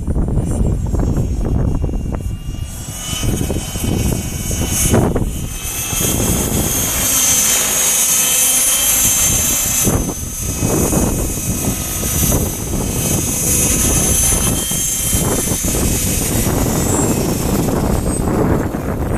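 KDS Innova 600 electric RC helicopter in flight: a steady high whine from the motor and drivetrain over the rotor noise, louder in the middle and fading near the end. Gusty wind buffets the microphone underneath.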